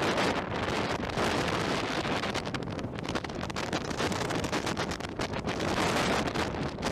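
Strong coastal wind buffeting the microphone in uneven gusts, a dense rushing roar that swells and dips.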